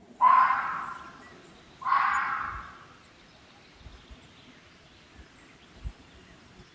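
Wolf calling twice, each call about a second long, starting sharply and fading out.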